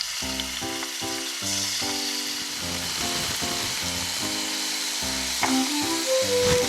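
Food frying and sizzling in a pan, a steady hiss that grows stronger about a second and a half in, under background music with a melody of held notes.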